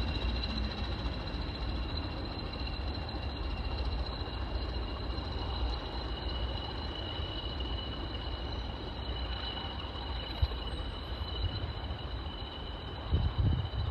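A train running steadily: a low rumble under two steady high-pitched whining tones. Wind buffeting on the microphone starts near the end.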